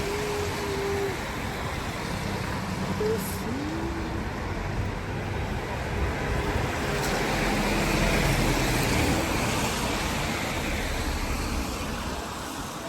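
Road traffic passing on a wet street, with a steady hiss of tyres and rain. A passing vehicle's engine rumble builds to its loudest about eight seconds in, then fades.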